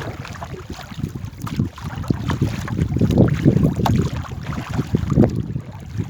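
Wind buffeting the microphone in uneven gusts aboard a small paddled boat, with a few faint light knocks.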